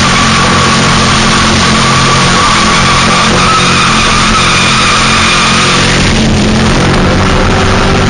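2000 Ford Mustang drift car sliding with its tyres squealing in a steady high tone and the engine held at high revs. The level stays loud and even throughout.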